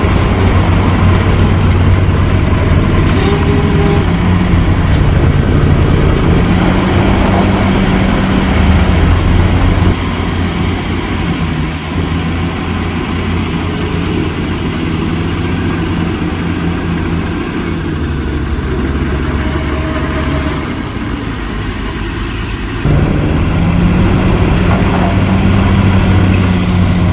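Heavy diesel engine of a construction machine running, its pitch rising and falling as it works under changing load. The sound drops in level about ten seconds in and jumps back up suddenly near the end.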